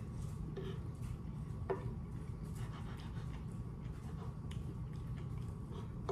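Eating sounds: chewing with a few small mouth clicks, over a steady low hum.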